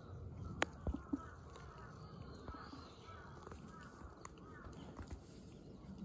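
Faint outdoor bird calls, short wavering chirps, with a few sharp clicks about a second in.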